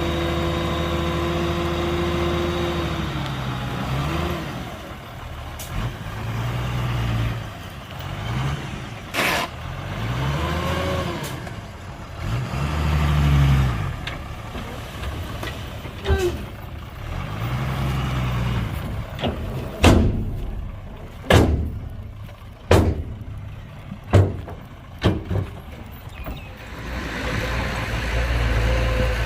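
Heavy diesel construction-machine engine running, revving up and down again and again. A run of sharp bangs and knocks comes about two-thirds of the way through.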